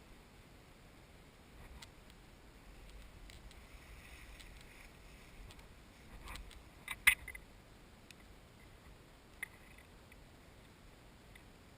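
Quiet background with a few scattered sharp clicks and light rustling, the loudest a quick double click about seven seconds in and another single click a couple of seconds later.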